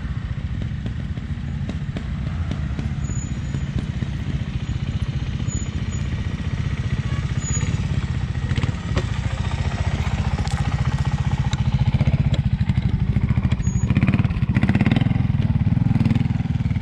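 Trials motorcycle engine running at low revs, a rapid even thumping of firing pulses, picking up in the last few seconds, with a few sharp knocks and clatters mixed in.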